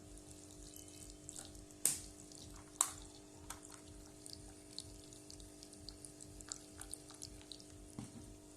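Toy washing machine running: its small motor hums steadily while water splashes and drips in the tub, with scattered light clicks and two sharper knocks about two and three seconds in.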